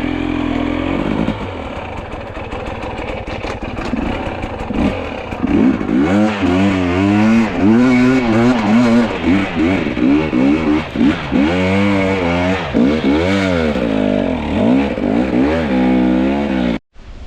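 Two-stroke enduro dirt bike engine being ridden hard, the throttle opened and closed over and over so the revs rise and fall quickly. It is steadier for the first few seconds, then cuts off abruptly near the end.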